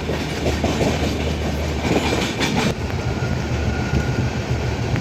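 Passenger train running, heard from inside the coach by the window: a steady rumble of wheels on rail with clickety-clack from the rail joints. A louder rattling stretch comes about two seconds in and cuts off sharply.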